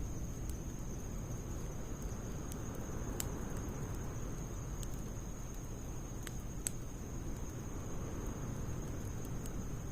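Wood fire of logs and pine needles burning in a Snow Peak fire pit: a steady low rush with scattered sharp crackles and pops, the loudest pop about two thirds of the way in. A thin steady high-pitched tone runs underneath.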